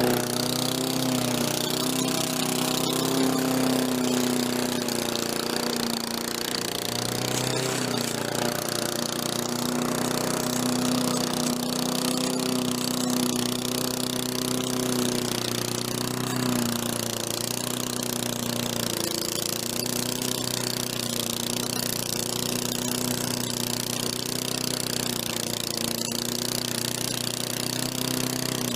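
Walk-behind lawn mower engine running steadily, its pitch wavering slightly.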